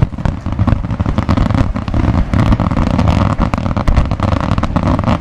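Aerial firework shells bursting in a dense barrage: many overlapping bangs, several a second, over a steady crackle.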